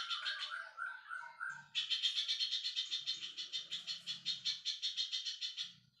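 Small songbird calling. A short run of lower, evenly repeated notes comes first, then about a second and a half in it breaks into a fast, high chirping trill of roughly eight chirps a second, which stops just before the end.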